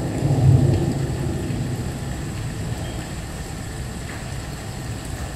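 Thunderstorm sound effect: a low rumble of thunder, loudest about half a second in, then slowly dying away.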